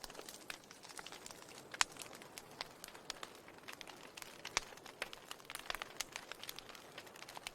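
Wood fire crackling: irregular sharp snaps and pops over a faint steady hiss, with louder pops about two seconds in and about four and a half seconds in.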